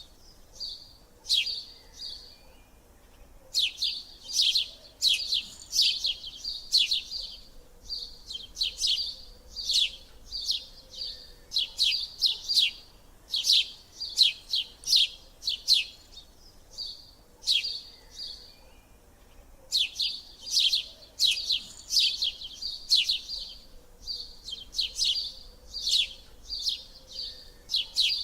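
Small birds chirping: quick, high, downward-sliding chirps in rapid runs, broken by short pauses every few seconds.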